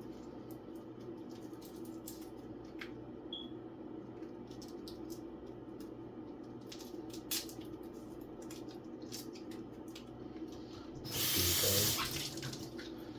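A kitchen tap runs briefly, a burst of rushing water lasting about a second near the end, over a steady low hum and scattered light clicks.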